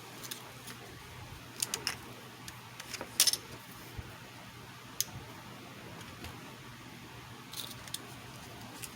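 A few short, light clicks and taps, some in quick little groups, over a faint steady hiss, the sound of small repair tools being picked up and set down. The loudest cluster comes about three seconds in.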